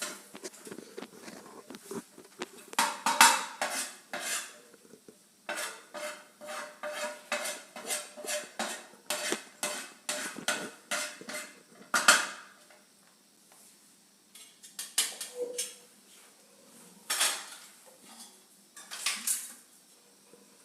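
A spoon scraping and clinking against a bowl while a dry spice and egg-yolk stuffing is mixed, in a run of quick strokes about two a second, with a few louder knocks.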